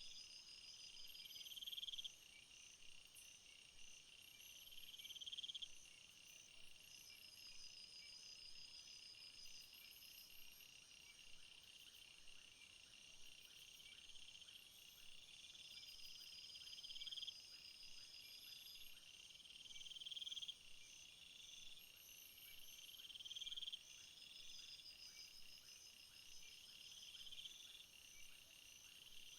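Chorus of field insects such as crickets chirping: several high, pulsed trills overlapping, one of them swelling louder for a second or two and then stopping abruptly, over and over every few seconds.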